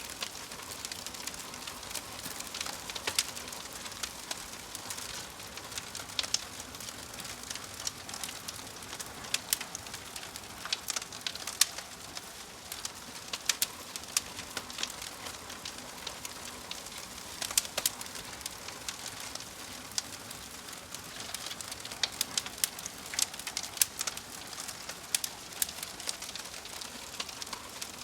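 Wood fire crackling: a steady hiss broken by many sharp, irregular pops and snaps.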